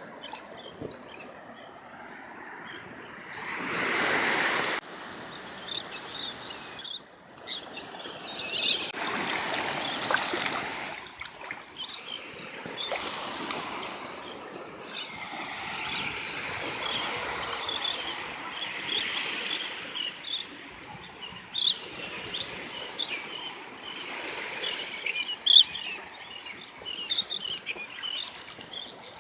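Birds chirping with many short, high calls over water splashing and trickling, with a few louder stretches of rushing water noise and one sharp louder chirp near the end.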